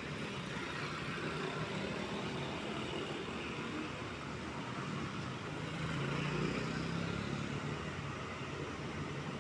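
Diesel trucks running past in steady traffic, with an engine drone that swells as one comes closer about six seconds in.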